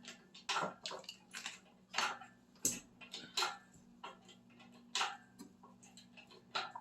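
Irregular metallic clinks and knocks, about a dozen sharp hits spread unevenly, from tools and metal parts being handled during an engine removal.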